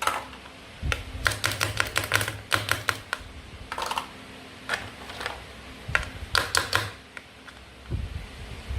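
Toy play food being cut with a toy knife: several quick runs of light, sharp clicks and taps, with short pauses between them.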